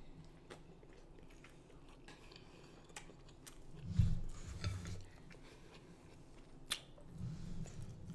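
Close-miked chewing and wet mouth sounds of a person eating seafood, with scattered sharp smacks and clicks. A louder, low mouth sound comes about four seconds in.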